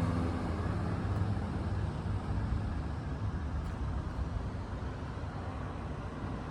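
Stock Suzuki GZ125HS motorcycle's 125 cc single-cylinder four-stroke engine idling steadily.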